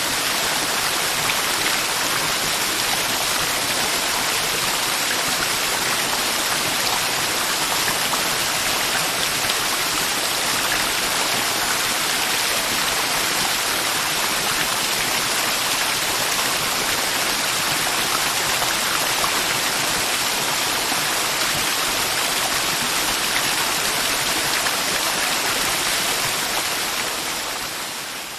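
Mountain river water rushing steadily, fading out near the end.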